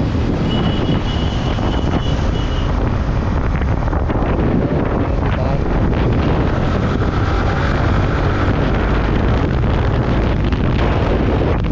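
Steady wind rushing over the microphone of a motorcycle riding at speed, with the bike's engine and road noise running beneath it.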